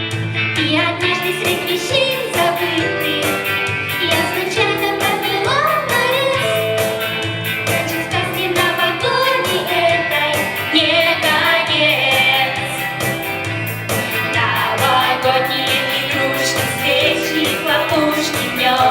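A song performed with singing over instrumental accompaniment.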